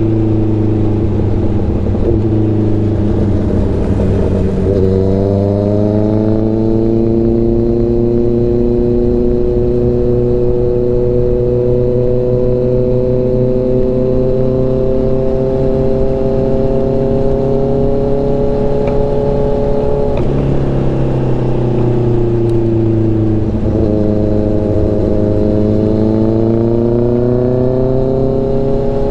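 Honda CBR650F's inline-four engine pulling under way. Its pitch dips and climbs about five seconds in, holds a steady cruise, then falls twice after about twenty seconds before climbing again as the bike accelerates.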